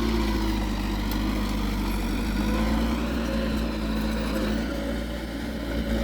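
Diesel engine of heavy earthmoving machinery running steadily, its pitch shifting slightly a little over two seconds in.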